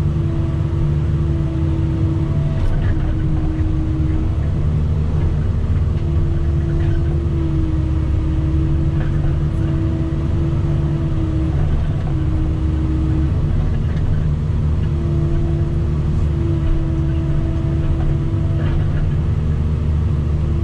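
Kubota SVL90-2 compact track loader's diesel engine running steadily under load while it cuts and grades soil. A whine comes and goes over the engine drone.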